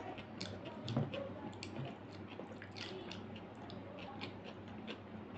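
Close-miked chewing with many small, irregular wet mouth clicks, along with fingers squishing and mixing rice on the plate.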